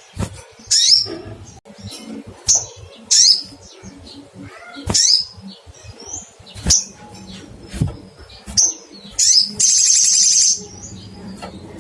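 Olive-backed sunbird giving a series of short, sharp high 'cuit' calls, each falling in pitch, about one a second. Near the end comes a rapid trill lasting about a second.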